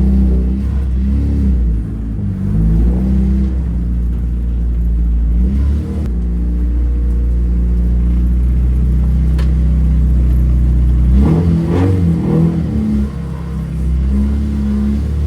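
Honda K24 four-cylinder engine (from a 2006 CR-V, swapped into a 1993 Civic) running cold, with a steady low drone broken by several short rises in revs as the throttle is blipped. It is too cold to hold an idle on its own and is being kept from stalling.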